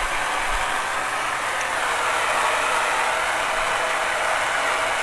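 Propane soldering torch flame hissing steadily while heating a copper pipe joint to solder on a valve.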